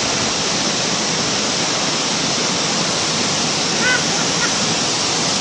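Steady, unbroken rush of flowing water, with a brief voice about four seconds in.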